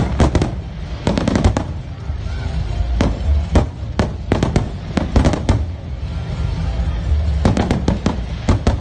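Aerial fireworks display going off: many sharp bangs and crackles in quick succession over a low rumble, with dense clusters around the middle and near the end.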